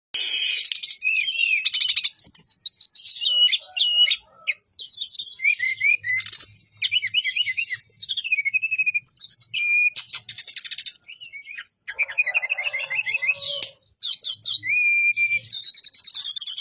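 A songbird singing continuously and energetically: a fast, varied string of chirps, rattling trills and clear whistled notes that sweep up and down, broken by short pauses.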